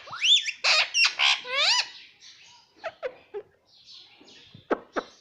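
Pet parrot calling: a run of loud whistled calls that glide up and down in pitch over the first two seconds, then quieter chirps and a few quick downward-sweeping squeaks near the end.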